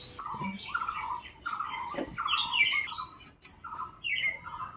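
Birds calling in quick, repeated short squawks and chirps, several a second, with a single soft knock about two seconds in.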